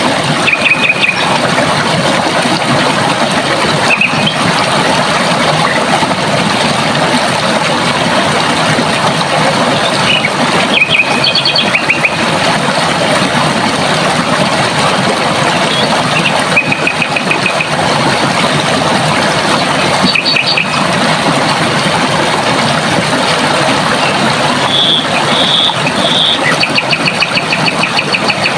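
Running water rushing steadily, with a small bird singing short, rapid trills of high notes every few seconds over it.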